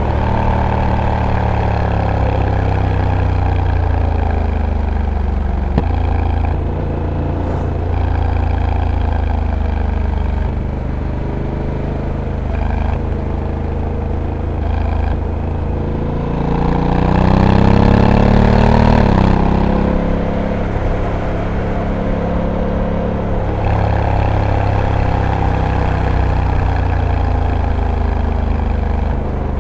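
Honda Africa Twin's 1084 cc parallel-twin engine heard from onboard while riding, its pitch falling and rising with the throttle through the bends. About two-thirds of the way through it revs up to its loudest, then drops suddenly, and it climbs again near the end.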